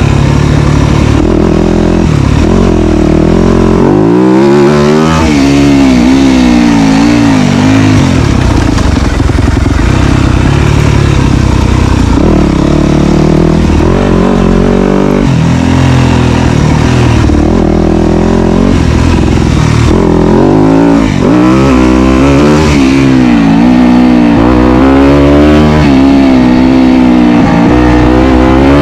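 Dirt bike engine running close to the microphone while riding a trail, its pitch rising and falling continually with throttle and gear changes.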